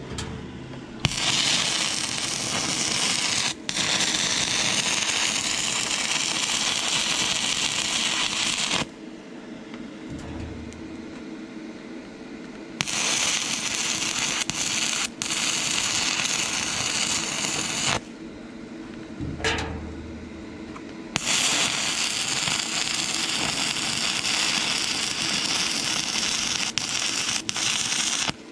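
Stick-welding arc from 6011 electrodes on rusty, painted thin steel, driven by an inverter arc welder. The arc runs in three long stretches of about eight, five and seven seconds with short pauses between, breaking off for an instant once in each of the first two runs.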